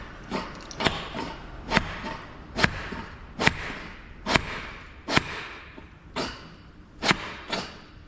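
Hydraulic cylinder rod knocking against the gland nut inside the counterweight cylinder barrel, its own weight used to tap the nut out: about ten sharp metal knocks, roughly one a second, each ringing briefly.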